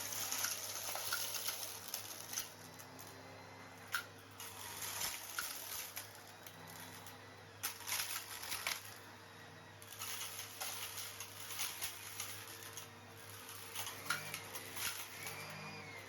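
Henry vacuum cleaner sucking up small stones from artificial grass: a steady motor hum and rush of air, with scattered clinks and rattles as stones are drawn up the hose. Short bird chirps come in near the end.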